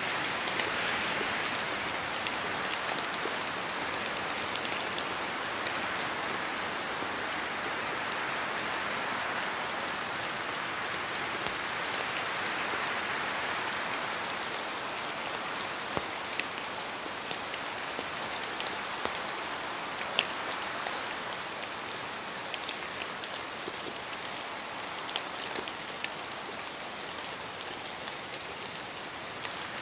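Steady rain falling, with scattered close drop hits and a gentle rise and fall in the rush of the downpour.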